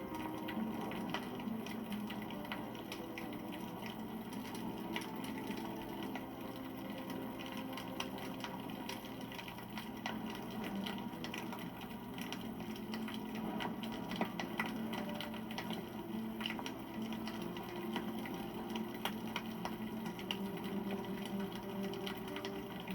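Wood fire crackling and popping, with many small sharp snaps scattered irregularly over a steady low rush.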